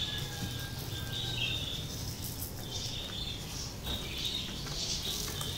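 Birds chirping: short, high, thin calls recurring every second or so over a steady low background noise.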